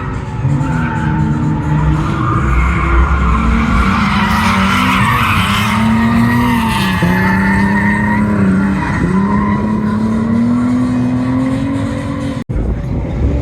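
Car engine revving up and down under load while the tyres squeal and skid continuously. The sound drops out for a split second near the end.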